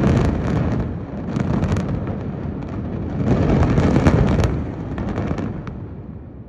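Controlled demolition of a high-rise tower: a rapid series of sharp explosive charges cracking over a heavy low rumble, loudest around the middle, then thinning out and fading near the end.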